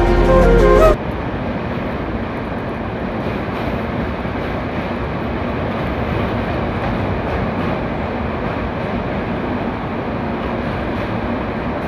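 Music with singing cuts off about a second in, leaving the steady running noise of a moving train.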